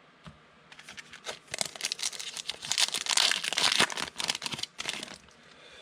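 Thin plastic trading-card pack wrapper being torn open and crinkled, a dense crackling that peaks in the middle and dies away about a second before the end.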